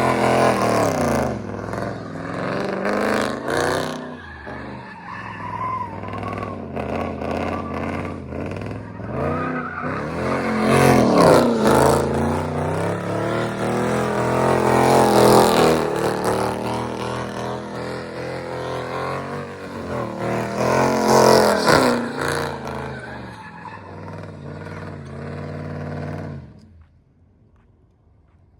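A car engine revving hard again and again, its pitch climbing and falling, with bursts of tyre squeal at the loudest peaks. Onlookers guess it is probably a 5.7-litre V8. The sound cuts off near the end.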